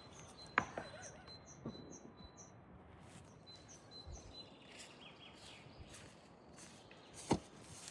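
Small birds chirping, a run of short high notes with a thin high whistle, over a faint outdoor background. Two sharp knocks cut through, about half a second in and a louder one near the end.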